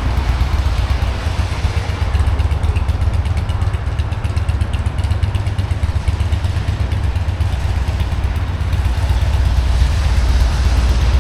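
Rainy city street ambience: a steady low rumble under a hiss, growing a little louder near the end.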